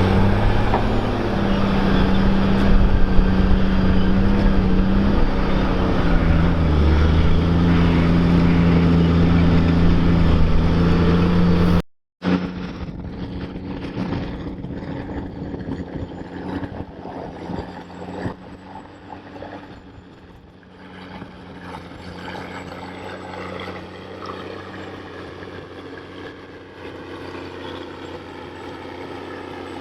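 New Holland 6090 tractor's diesel engine running close by with a steady low hum, its pitch dipping and recovering about six to eight seconds in. About twelve seconds in the sound cuts out for a moment and returns much quieter and more distant.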